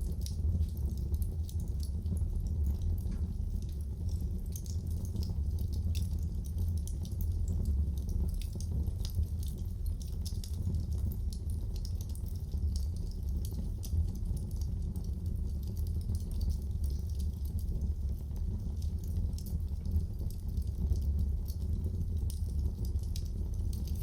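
Wood fire burning in a fireplace: frequent small, irregular crackles and pops over a steady low rumble.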